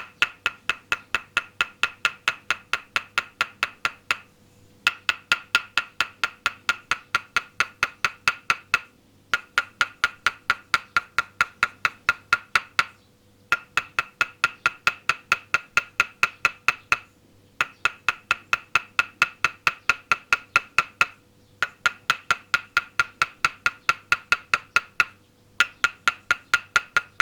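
Wooden toksen mallet rhythmically tapping a wooden peg held against the body, about five ringing knocks a second. The knocks come in runs of about four seconds, each broken by a brief pause.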